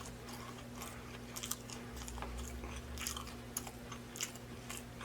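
A person chewing a mouthful of sandwich close to the microphone: scattered soft, short wet mouth clicks and chews, over a faint steady hum.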